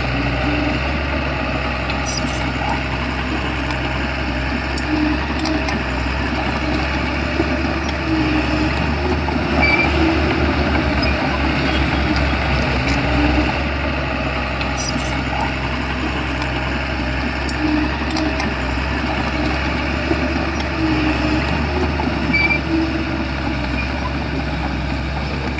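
Shantui bulldozer's diesel engine running steadily, with a few short clicks about two seconds in and again midway.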